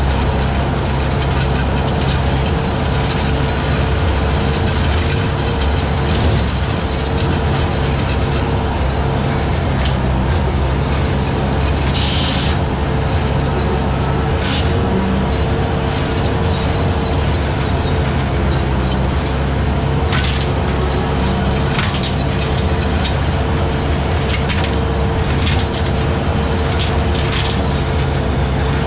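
Skid steer engine running steadily at working speed, driving a 72-inch brush cutter through grass and brush, with scattered sharp snaps and knocks.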